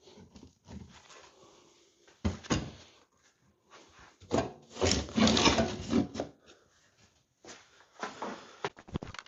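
A thin sheet-steel panel being bent by hand in a homemade slotted-bar bender, with irregular knocks, clanks and scraping as the metal is pushed and shifted. The busiest stretch is about four to six seconds in.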